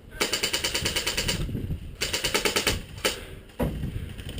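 Airsoft rifle, an FN F2000 replica, firing two rapid full-auto bursts of BBs, each a second or so long, with a single shot after them. Near the end, a louder scuffing or thumping sound.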